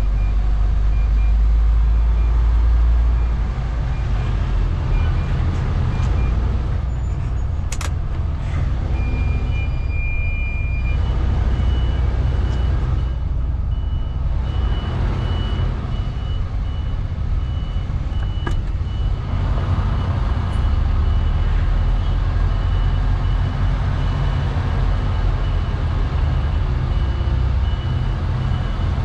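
MAN lorry's diesel engine running at low revs while reversing a trailer, with the reversing alarm beeping in a steady series of short high pulses. Two brief sharp clicks stand out about 8 and 18 seconds in.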